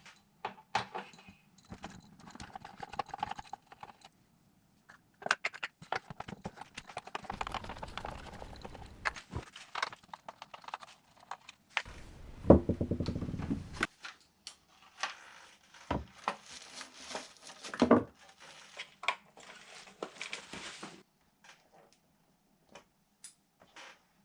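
Glitchy electronic noise from a DigiTech RP-1 multi-effects processor driven in a no-input feedback loop: sputtering crackles, clicks and short hissy spurts that start and stop abruptly, with a buzzing pitched drone about halfway through and a few sparse clicks near the end.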